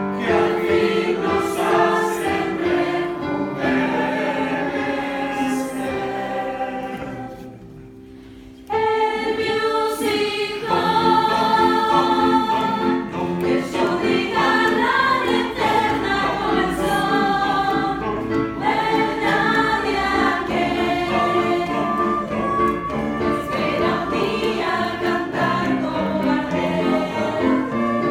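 Youth choir singing in parts. The voices fade about seven seconds in, then come back in together suddenly and loudly just before the nine-second mark.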